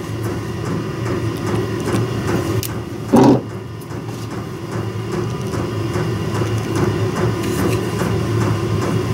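Steady mechanical drone of a running shop heater, with small handling clicks and one short loud knock about three seconds in.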